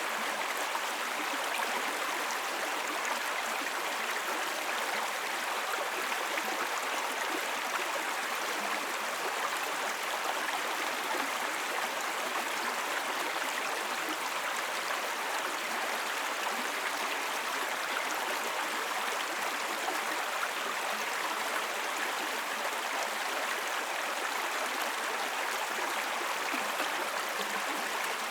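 Small babbling brook: water running steadily over stones, an even rushing and gurgling.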